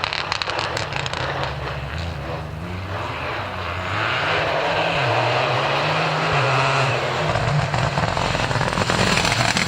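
Rally car engine revving hard, its pitch stepping up and down as the driver works the throttle and gears, with sharp crackles over the first few seconds. The car grows louder about four seconds in as it draws nearer.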